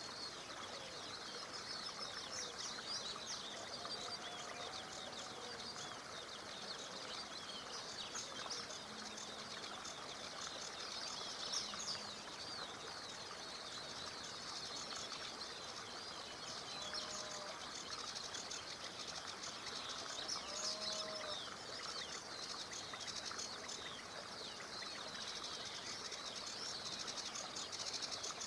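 A dense chorus of small songbirds chirping and singing, with a few lower, rounded calls about halfway through, over the steady hiss of a small stream.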